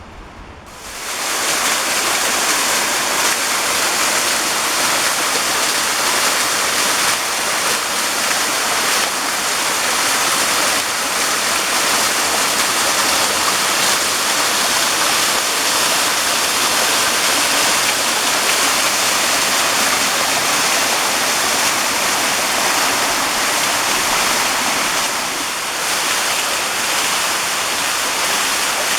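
Waterfall: loud, steady rushing of falling water, which cuts in suddenly about a second in.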